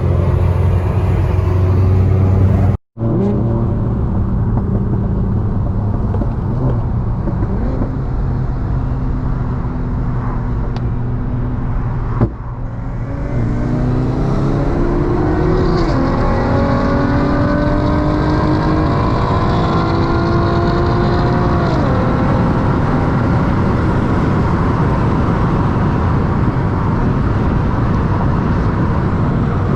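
A car engine running, then accelerating hard from about twelve seconds in: its pitch climbs steadily for about nine seconds, with a whine over it, before dropping as the throttle is lifted. Brief cuts in the sound come near the start and just before the pull.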